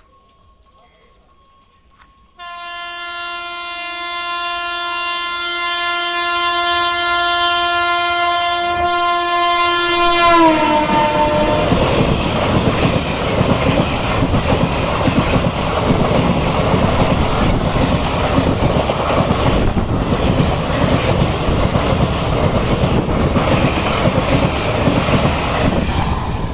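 A train horn sounds about two seconds in and is held steady for about eight seconds. Its pitch drops as the train passes the crossing. A loud rumble and clatter of wheels over the rail joints follows to the end as the train rolls by.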